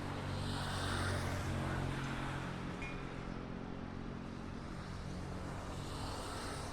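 A motor vehicle's engine hum with road noise, loudest about a second in, and another swell of passing traffic near the end.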